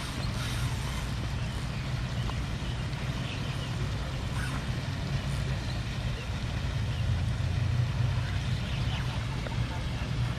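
Steady low hum under an even background hiss.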